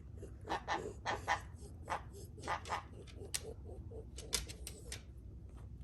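A dog panting in quick, uneven pairs of breaths.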